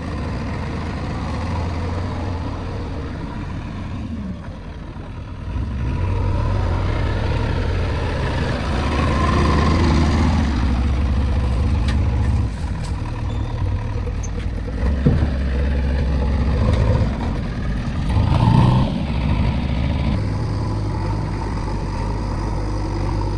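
Diesel engine of the backhoe or the stuck pickup running under changing load, revving up and easing off several times. A single sharp knock about 15 seconds in.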